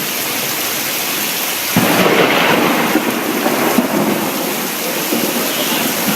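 Heavy monsoon rain pouring steadily. About two seconds in, a louder rushing surge of water comes in and lasts about two seconds before easing back.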